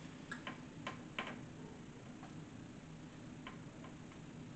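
Someone chewing a mouthful of fish taco: a few short wet mouth clicks and lip smacks, most of them in the first second and a half, over a faint steady hum.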